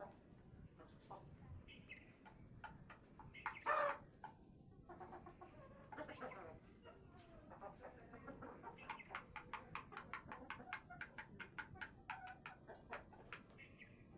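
Layer hens clucking while feeding, with one loud call about four seconds in. Rapid sharp clicks, typical of beaks pecking at feed, come thick through the second half.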